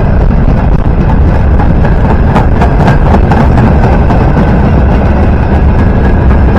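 Train passing at close range: a loud, steady rumble with sharp clicks from the wheels starting about two seconds in.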